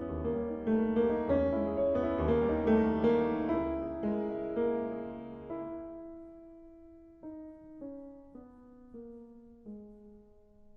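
Background piano music: a flowing passage of chords and melody that thins out after about six seconds into single, slower notes that fade away.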